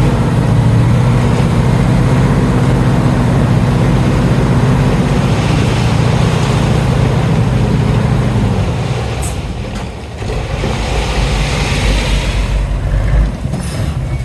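Heavy diesel engine of construction machinery running steadily at a loud, even pitch. It eases off about two-thirds of the way in, then a hiss swells near the end.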